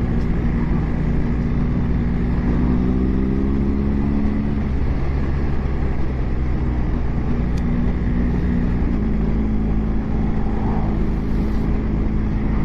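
Motorcycle engine running under way, with a heavy rumble of wind and road noise on the microphone. The engine note climbs between about two and four seconds in as the bike accelerates, then settles.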